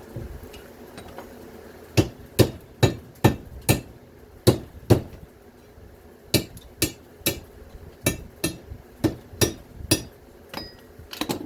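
A hammer striking scrap parts again and again. There are about seventeen sharp blows, starting about two seconds in and coming at roughly two a second in short runs, with a quick flurry near the end.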